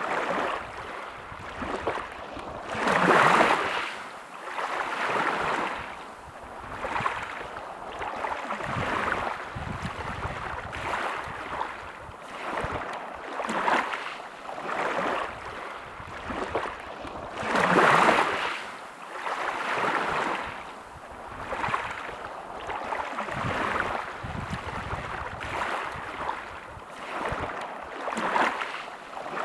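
Sea waves washing in and out in a steady series of swells, with two larger waves breaking about three seconds in and again about eighteen seconds in.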